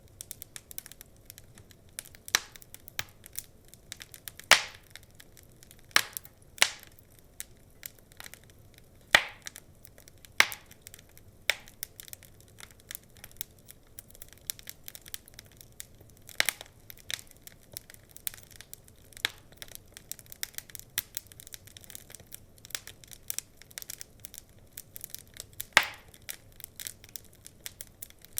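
Wood fire crackling: irregular small snaps over a faint hiss, with a few louder pops, about four seconds, nine seconds, sixteen seconds and twenty-six seconds in.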